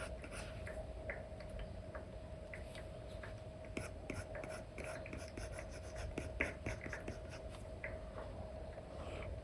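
Apple Pencil 2 with an Elecom nib stroking and tapping on an iPad's paper-like screen film, in many short, irregular scratches and ticks over a faint steady hum.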